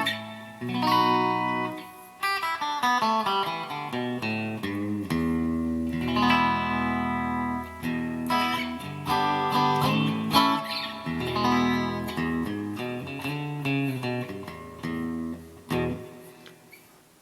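Donner DST-200 electric guitar played through an amplifier on its middle pickup alone (switch position 3): a run of picked notes and chords, dying away near the end.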